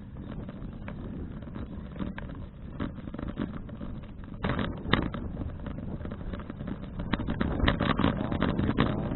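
Wind and road rumble picked up by an action camera on a moving folding bicycle, with short rattling clicks that come thicker from about seven seconds in.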